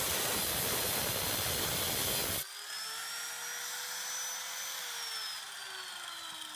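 Angle grinder cutting through the sheet-metal rear fender, a loud harsh hiss that stops abruptly about two and a half seconds in as the disc comes off the metal. The grinder's motor then whines steadily before falling in pitch as it winds down.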